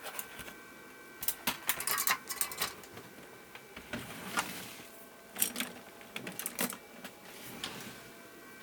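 Irregular small clicks and light clatter of hand tools and parts being handled at an electronics workbench, with a busy run of clicks early on and another about halfway through.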